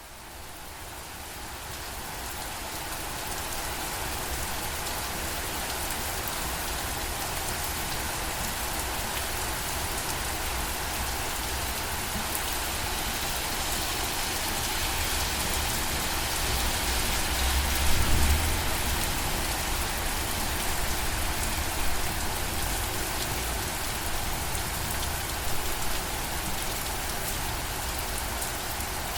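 Steady rain falling on surfaces, a dense even patter that fades in over the first few seconds. About two thirds of the way through there is a brief low rumble.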